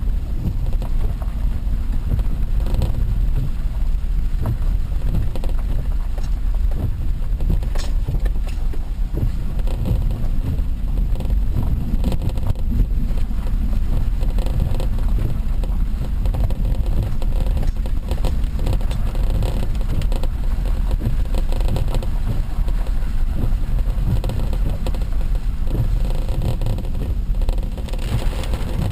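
Steady low rumble of a car on the move: road and engine noise heard from inside the vehicle, with a few faint clicks.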